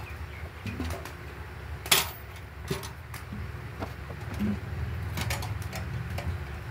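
Birds calling over a steady low rumble, with a few sharp clicks; the loudest click comes about two seconds in.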